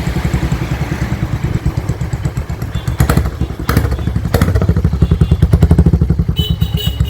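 Royal Enfield Hunter 350's single-cylinder engine running through an aftermarket Austin Racing exhaust just after start-up, a deep, loud, evenly pulsing exhaust note. A few sharp cracks come around three to four and a half seconds in, and the note gets louder after that.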